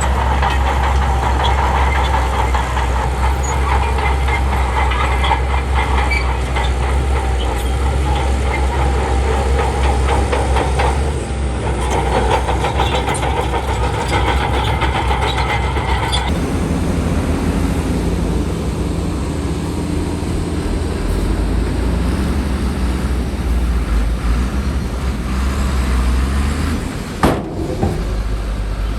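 Heavy diesel earthmoving machinery running steadily. The sound changes about sixteen seconds in and breaks off briefly near the end.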